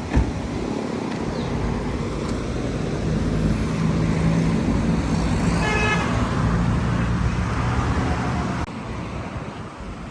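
Road traffic: a motor vehicle's engine running close by, growing louder through the middle, with a brief beep about six seconds in.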